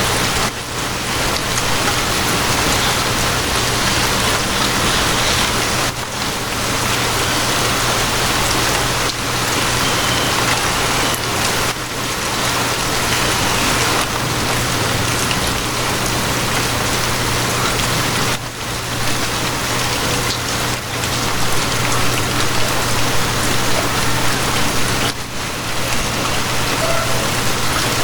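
Steady rain falling, over a constant low hum from a moving train. The rain's level dips briefly every few seconds.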